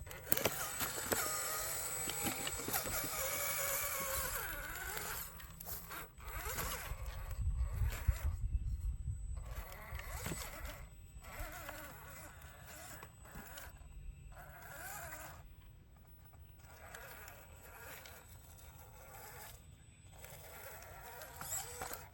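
Electric motor and gears of a radio-controlled CJ7 scale rock crawler whining as it drives, the pitch rising and falling with the throttle. A longer run comes first, then shorter stop-and-go bursts.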